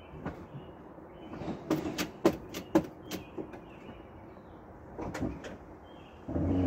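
1982 Ford Mustang GT's 5.0-litre V8 idling low and steady just after a cold start. A cluster of sharp clacks comes about two seconds in, a couple more near five seconds, and a louder, deeper thump right at the end.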